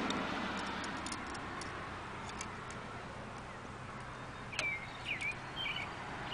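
A bird chirps about three times in the second half over steady outdoor background noise, with a few faint light clicks earlier on.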